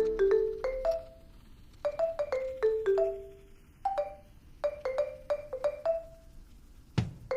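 Background music: a light melody of struck mallet notes like a marimba, each note ringing briefly and fading. A low drum beat comes in near the end.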